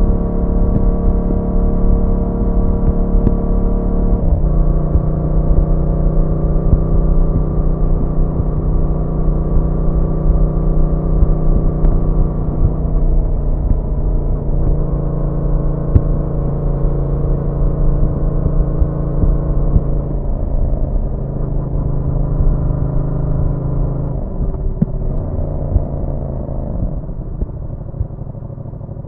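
Yamaha MT-07's parallel-twin engine running at a steady cruise. Its note drops in steps a few times, settling to lower revs, and it grows quieter near the end.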